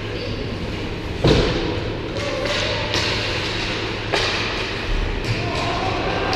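Ice hockey play in an arena: a string of sharp knocks from sticks, puck and boards, the loudest a little over a second in, over the steady hum of the rink.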